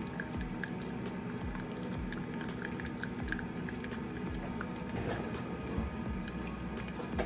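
Melted butter and honey bubbling in a small saucepan over medium heat, with many small irregular pops, over the steady hum of an air fryer running.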